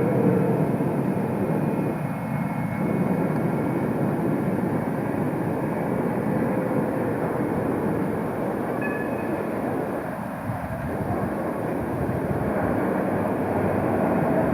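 Berlin tram running on street track: a steady mechanical running noise with faint whining tones, and two brief higher squeals about nine seconds in.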